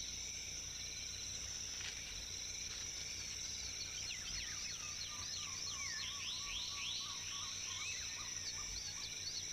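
Tropical rainforest ambience: a steady, high-pitched insect drone with many short sweeping bird whistles over it, and a lower wavering trill in the middle stretch.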